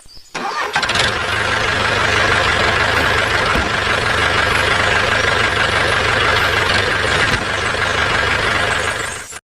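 Tractor engine running steadily, a low rumble with a steady whine above it. It starts about a second in and cuts off abruptly near the end.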